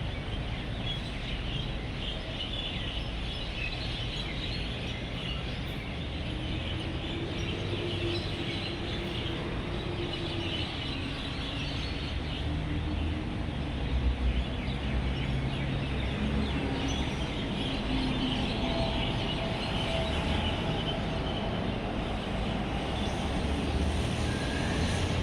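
Dense, continuous chatter of a flock of birds chirping as they gather to roost, over a steady low rumble of road traffic.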